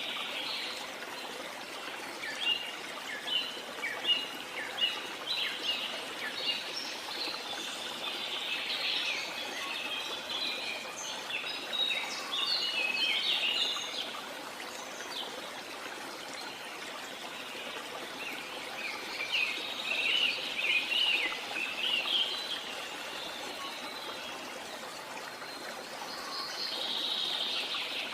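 Steady rush of running water from a jungle waterfall, with birds chirping in quick flurries over it, busiest in the first half and again about two-thirds of the way through.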